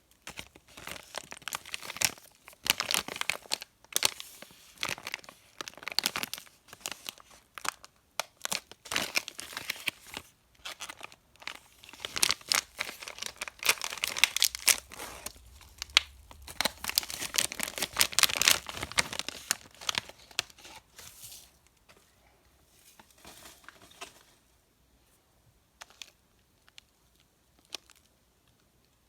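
Candy wrappers being torn open and crinkled in a long run of dense crackling rustles, thinning to scattered faint crinkles about three-quarters of the way through.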